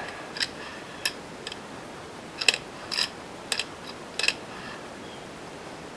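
Small hard clicks and taps of parts being handled during bench assembly of an RC car's rear suspension, about six scattered over a few seconds.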